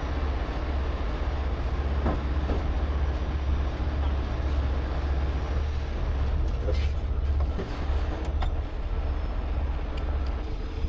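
Heavy tow truck's engine running with a steady low rumble, with a few light clicks over it.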